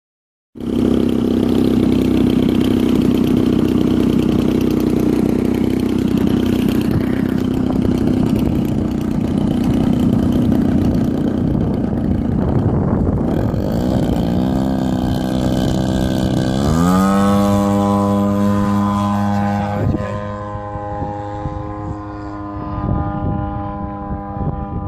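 Small model airplane engine running steadily at high speed. About two thirds of the way through its pitch wavers, then rises and holds at a higher pitch, as when the throttle is opened. The sound grows duller near the end.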